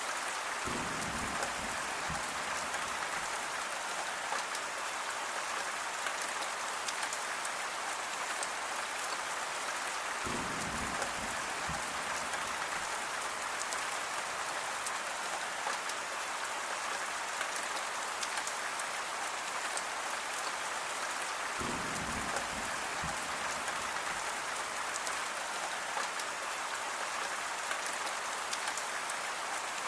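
Steady rain falling and pattering on a surface. Three times, about every eleven seconds, a short low rumble lies under it.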